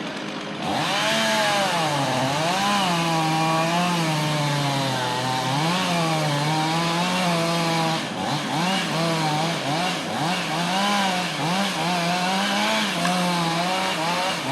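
Chainsaw cutting through a tree, its engine pitch dipping and rising over and over as it bogs under load, starting about half a second in.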